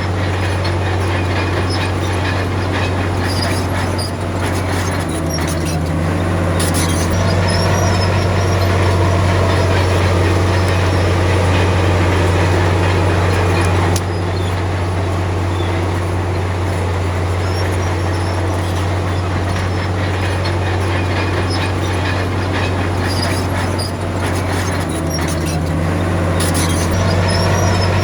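Komatsu D53P bulldozer's diesel engine running steadily as it works, its note shifting a couple of times, with occasional high metallic squeaks.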